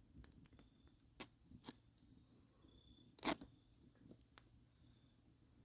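Knife cutting and tearing through cotton shirt fabric: a series of short, quiet rips and snips, the loudest about three seconds in. The blade is dull and needs sharpening.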